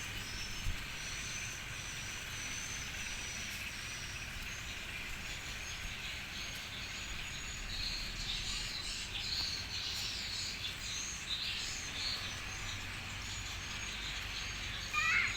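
Outdoor ambience of insects and birds: a steady high insect whine, with scattered bird chirps in the second half and a short rising chirp near the end, over a faint low rumble.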